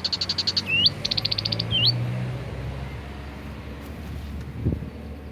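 A bird singing: fast, high rattling trills of clipped notes alternating with single upswept whistles, for about the first two seconds. Then a steady low hum, with a short low thump near the end.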